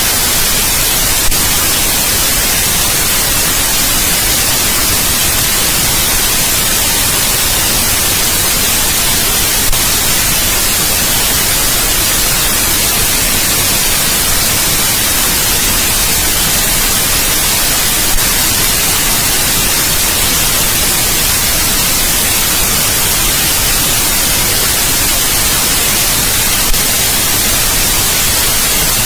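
Steady white noise: a loud, even hiss, brightest in the high end and unchanging throughout, with a faint click about every eight or nine seconds.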